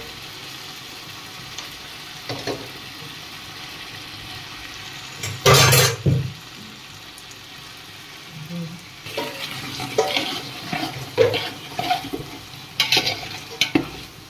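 Sliced tomatoes frying in oil and masala in a large metal pot, a steady sizzle, while a steel slotted spoon stirs and scrapes against the pot. One loud scrape comes about five and a half seconds in, and a run of short scrapes and clanks follows near the end.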